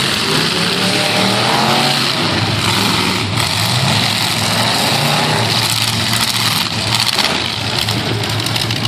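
Several half-ton pickup truck engines running loudly together, one revving up with a rising pitch about a second in.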